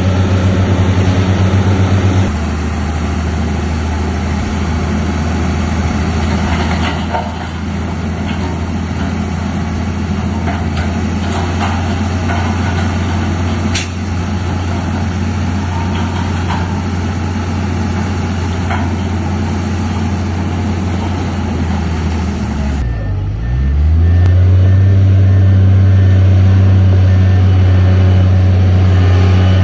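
Heavy diesel earthmoving machine running under load. Its engine note steps down about two seconds in, then dips and swings back up near the end to settle louder and steadier. Through that last part a faint beep repeats evenly.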